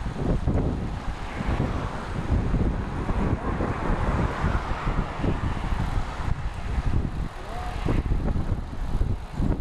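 Wind buffeting the microphone of a camera riding along on a moving bicycle, a gusty low rumble, with a rush of road and traffic noise that swells through the middle.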